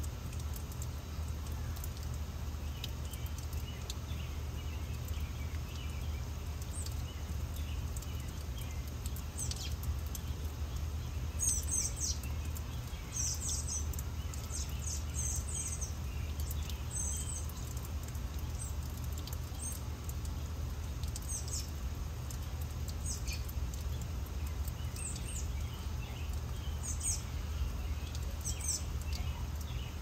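Garden birds chirping in short, high calls, busiest about a third of the way in and again near the end, over a steady low background rumble.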